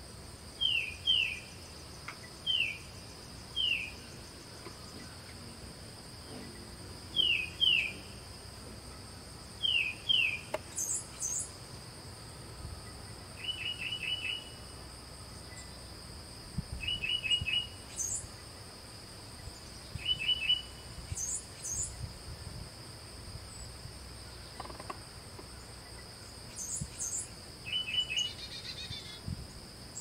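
Wild bird calling: short down-slurred notes, mostly in pairs every second or two, giving way about halfway through to quick bursts of three or four notes, with a few very high notes now and then. A steady high insect drone runs underneath.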